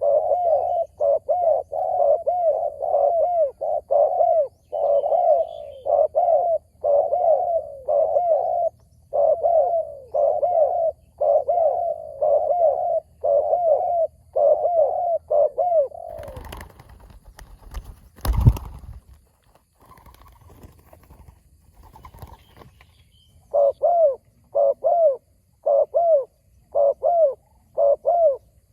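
Spotted doves cooing in quick, repeated phrases. About 16 s in the cooing breaks off for rustling and one loud thump, then resumes for a few more phrases near the end.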